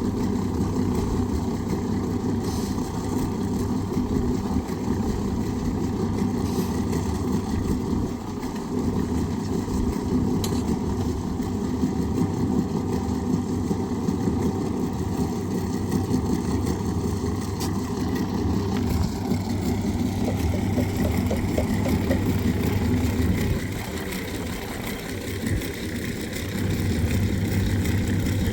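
An engine running steadily with a low hum, easing off slightly about three-quarters of the way through, then picking back up near the end.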